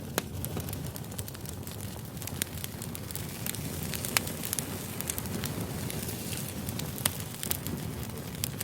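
Wood campfire burning: a steady low rumble of flames with sharp crackles and pops every second or two, the loudest pop about four seconds in.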